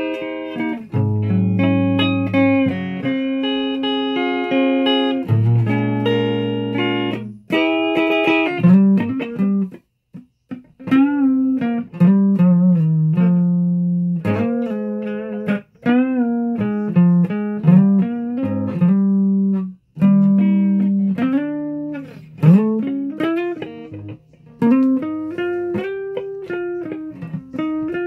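Guitar music: chords at first, then single notes that bend and slide in pitch, with a brief break about ten seconds in.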